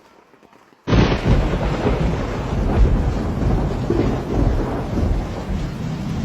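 Loud storm noise: heavy rain with a deep, continuous rumble, cutting in abruptly about a second in and then holding steady.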